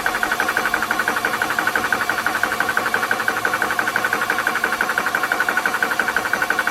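12V high-pressure PCP air compressor running, its piston pumping in a fast, even pulse of many beats a second over a steady high hum.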